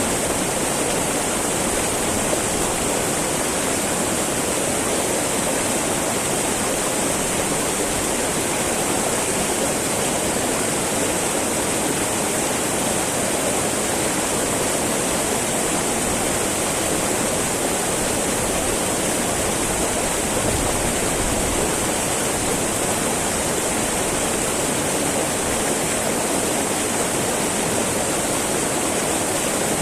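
Small mountain river babbling over rocks: a steady rush of flowing water with no let-up.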